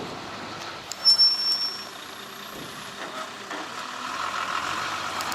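Heavy truck noise: a sudden loud, high-pitched hiss about a second in that lasts about a second, over a steady engine drone.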